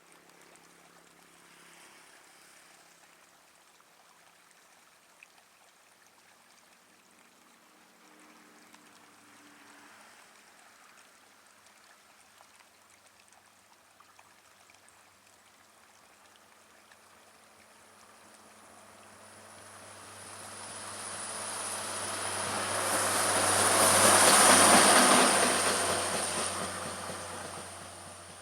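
A train approaching and passing close by: a faint low hum slowly builds, then the noise of the train swells to its loudest about 24 seconds in and fades away again near the end.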